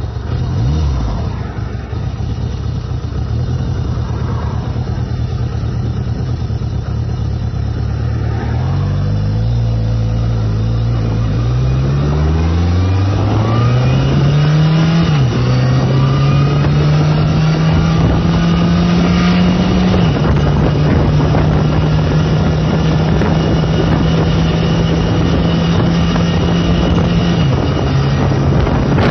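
1979 Yamaha XS1100's inline-four engine running at low revs, then accelerating through the gears: the pitch climbs and drops back at each of several shifts. It then settles into a steady cruise, dipping slightly twice later on.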